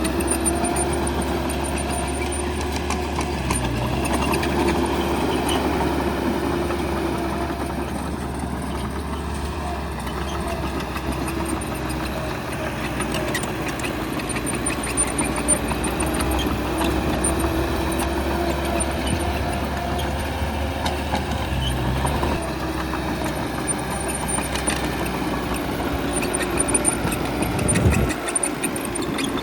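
Bulldozer's diesel engine running under varying load, its pitch swelling and easing several times, with a heavy thump near the end.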